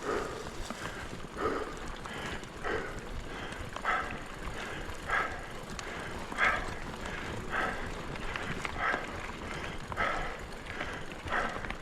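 A cyclist breathing hard and rhythmically while pedalling a mountain bike on a trail, about one loud breath every second and a bit, over steady tyre and trail noise.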